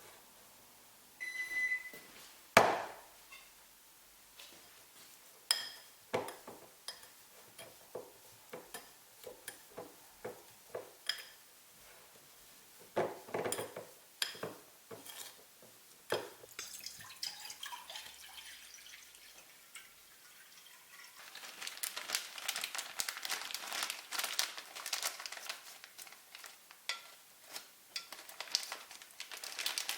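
Kitchen handling sounds: dishes and utensils knocking and clinking one at a time, with a short ringing clink near the start and a sharp knock a few seconds in. From about two-thirds of the way through, a dense crackling rustle sets in, like paper or packaging being handled.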